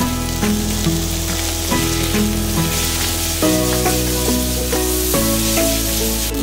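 Rice noodles and egg sizzling in a hot frying pan as a little water is added and the noodles are tossed with tongs. Background music with held notes and a steady bass plays over it.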